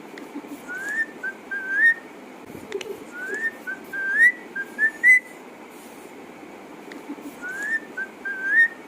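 Pet parrot whistling a short phrase of rising notes, a long upward glide followed by two quick notes, repeated several times.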